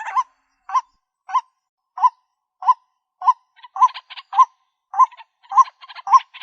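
White-breasted waterhen calling: a short note repeated steadily, about every 0.6 s. From about halfway the notes are joined by a rougher, raspier calling.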